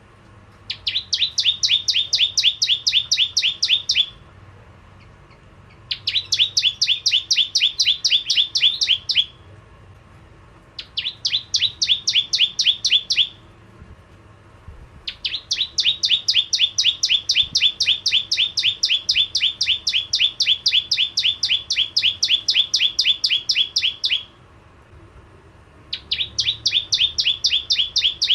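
Bar-winged prinia (prenjak jawa) calling in fast bouts of sharp, evenly repeated notes, about eight a second. Each bout lasts a few seconds, with short pauses between, and the longest comes in the middle, running about nine seconds.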